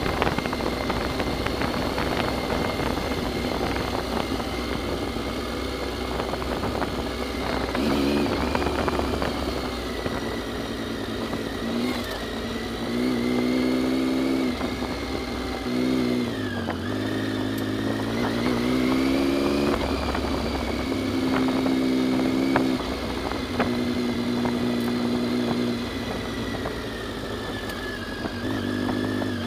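Triumph Tiger's three-cylinder engine pulling the bike along a dirt road, its revs rising and falling again and again as the throttle opens and closes. A steady high whine and a rushing rumble run underneath.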